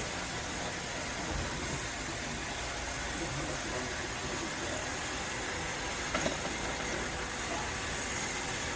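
iRobot Roomba robot vacuum running with a steady whir. There is a brief knock about six seconds in.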